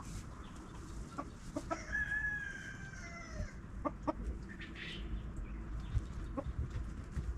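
Chickens clucking in short, sharp calls, with one drawn-out, slightly falling call about two seconds in.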